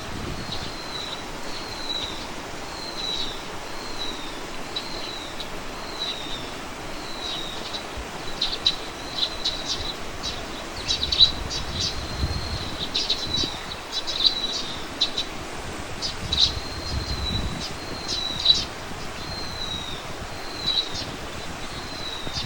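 Birdsong: a bird repeating a short falling call note about once a second or a little faster, with sharp clicking chip notes joining from about a third of the way in, over steady outdoor background noise.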